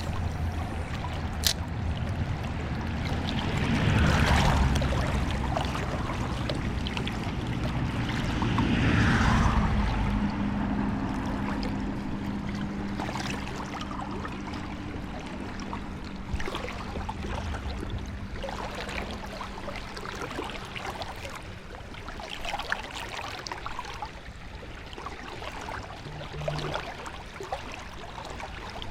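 River water flowing over a shallow riffle, a steady rushing with two louder swells about four and nine seconds in. A faint low hum runs underneath for several seconds in the middle.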